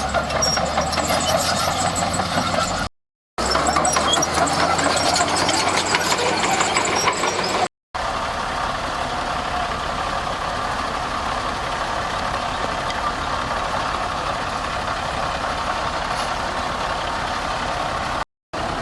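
Heavy diesel earthmoving machinery engines running steadily. The sound is cut into separate segments by brief silent gaps about three seconds in, near eight seconds and near the end.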